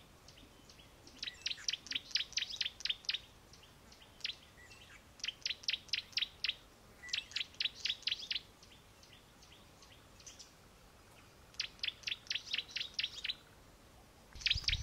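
A bird calling in runs of quick, high chirps, about seven a second, each run lasting a second or two and repeated every few seconds.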